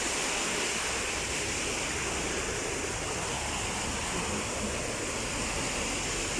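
Heavy rain and strong wind, a steady rushing noise.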